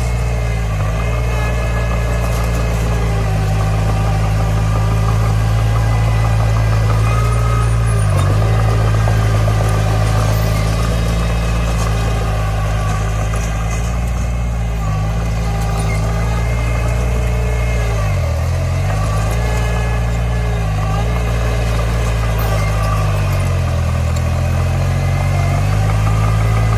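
Diesel engine of a Komatsu D20 bulldozer running steadily while it pushes dirt, its pitch dipping briefly three times, about 8, 18 and 24 seconds in, as the load comes on.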